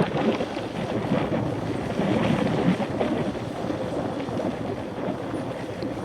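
Wind buffeting the microphone of a Shimano CM-1000 action camera riding on a moving mountain bike: a steady rushing noise with a few faint knocks.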